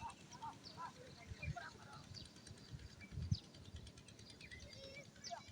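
Village outdoor ambience: several birds chirping and calling in short, scattered calls over a low rumbling background with occasional soft thuds.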